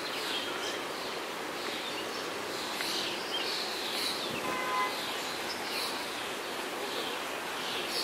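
Outdoor park ambience: a steady background hiss with a bird chirping over and over, about once a second. A brief pitched sound comes about halfway through.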